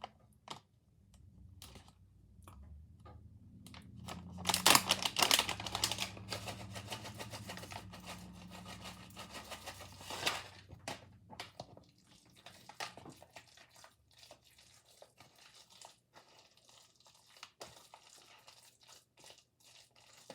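A bag crinkling and rustling as almonds are added to chicken salad. The sound is loudest for a few seconds about four seconds in, then gives way to scattered small clicks and scrapes.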